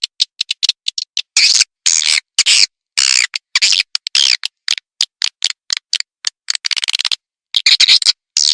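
Swiftlet lure call (suara panggil walet): rapid dry clicks alternating with short, high, buzzy chattering bursts, broken by brief gaps, with a short pause about seven seconds in.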